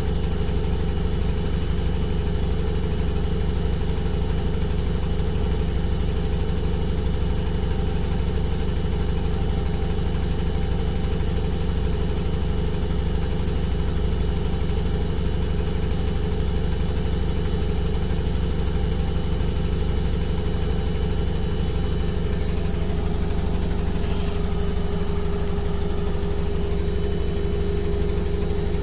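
Washing machine running with a steady low hum and motor drone, with no pauses; its tone shifts slightly about two-thirds of the way through.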